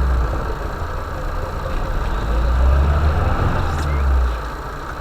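A vehicle's engine running at low revs, its low rumble swelling at the start and again from about two and a half to four seconds in, then easing off.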